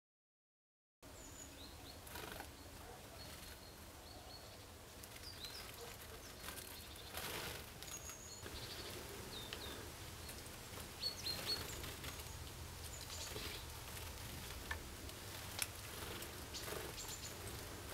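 Small birds calling with many short, high chirps over a steady low background hum, with a few brief clicks in between. The sound starts about a second in.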